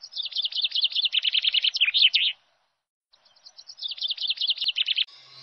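Songbird chirping: a quick run of sharp, repeated chirps, heard twice, each run about two seconds long with a short silent break between.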